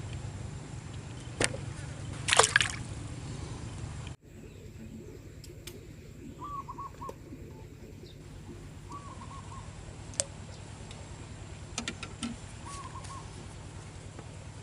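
Water sloshing and dripping, with two sharp splashes in the first couple of seconds as a freshly hooked fish comes out of the water. After a sudden cut about four seconds in, the background goes quieter: a bird repeats a short hooting call three times, and there are a few light clicks.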